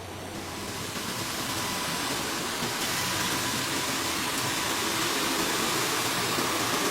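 Computerized sock-knitting machines running: a steady mechanical whir that grows louder over about the first second, then holds.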